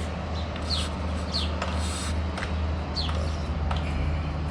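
A few short, high chirps sweeping downward, typical of small birds such as sparrows in a barn, over a steady low machine hum.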